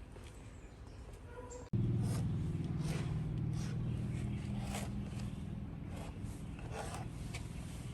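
A steady low motor hum starts abruptly about two seconds in, with repeated short scraping strokes over it, as of a power tool working wood.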